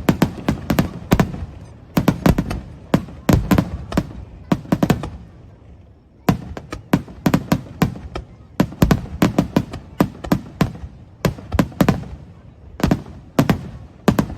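Fireworks display: rapid volleys of sharp bangs and crackles from bursting shells, coming in clusters, with a short lull about five seconds in before the volleys resume.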